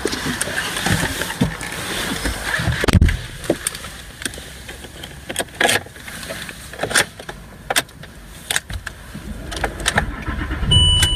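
Handling clicks and rustles inside the cabin, with a heavy low thump about 3 s in. Near the end the Land Rover Discovery's 2.7 TDV6 V6 diesel starts and settles into a steady low idle.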